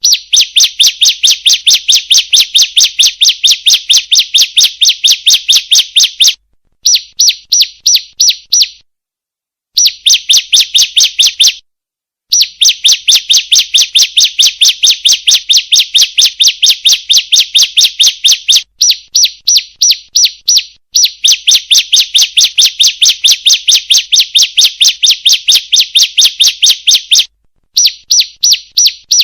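Female ciblek (prinia) calling: a fast run of sharp, high chip notes, about five a second, in long strings broken by short pauses.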